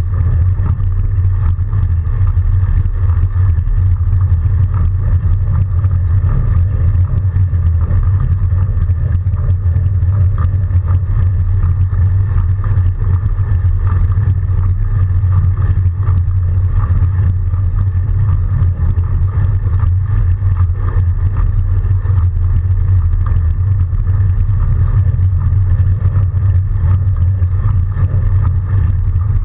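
Steady, loud low rumble of a fat bike riding through snow, heard from a camera mounted on the moving bike.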